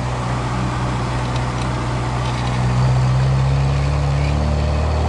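VAZ 2107's four-cylinder engine running as the car drives, heard from inside the cabin, its pitch and level rising a little about three seconds in as it picks up revs.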